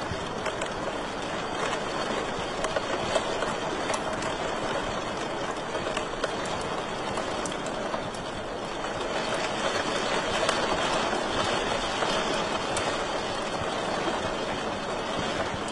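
Wood fire crackling in a fireplace: a steady rushing hiss of flames with scattered sharp pops and snaps.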